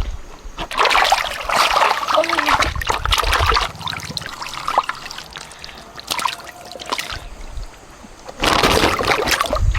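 Water splashing and trickling, in noisy bursts that are loudest in the first few seconds and again near the end, quieter in between.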